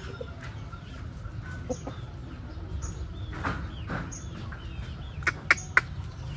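Chickens clucking in short calls over a steady low rumble, with three sharp clicks close together near the end.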